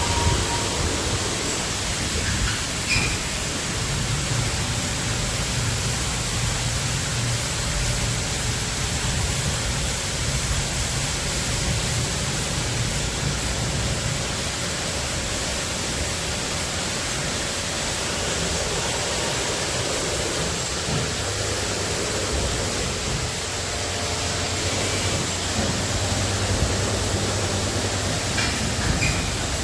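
Automatic car wash running: a steady rushing of water spray on the car, with a low machinery hum beneath it.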